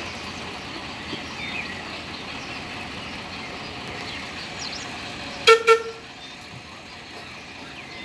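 Two short toots of the miniature railway locomotive's horn, close together about five and a half seconds in, over steady background noise.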